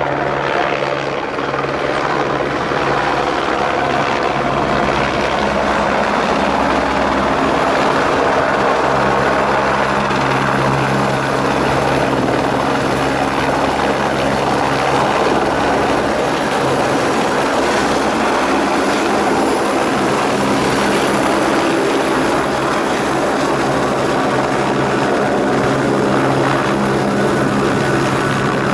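Helicopter running steadily at a constant loud drone, engine and rotor noise holding level throughout.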